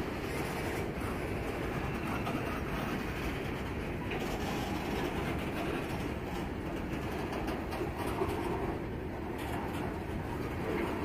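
A CSX mixed freight train's boxcars and intermodal flatcars rolling past. The wheels on the rails make a steady rumble and clatter.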